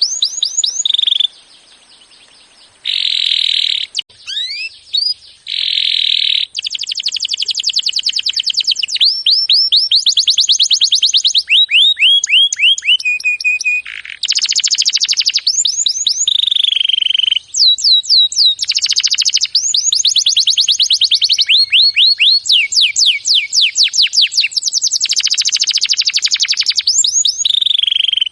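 Songbird singing a loud, fast, varied song: rapid trills and buzzy rattles alternating with runs of falling whistles, in bursts with brief pauses.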